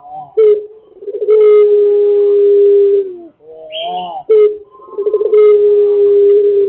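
Pelung rooster crowing twice: each crow opens with a few short rising notes and ends in a long, steady, held note of nearly two seconds. A brief high chirp falls between the two crows.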